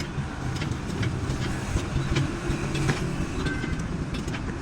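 A vehicle engine's steady low rumble, with scattered sharp metallic clicks and knocks over it.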